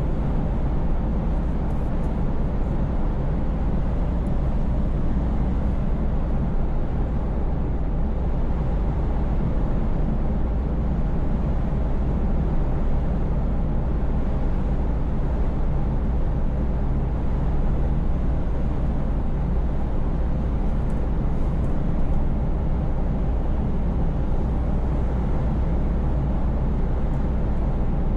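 Scania V8 truck driving at a steady pace: an even, low engine rumble that holds without change.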